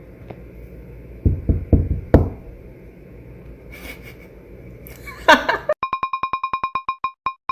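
A few knocks, then a brief pitched squeal, followed by a run of short electronic beeps at one pitch that slow down.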